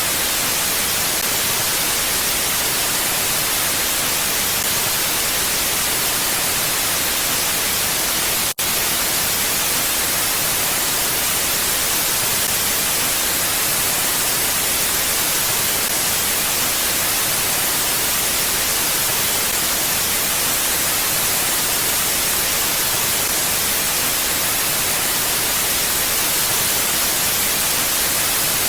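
Steady, even hiss of a wind ambience track, strongest in the highs and without gusts. It drops out for an instant about eight and a half seconds in.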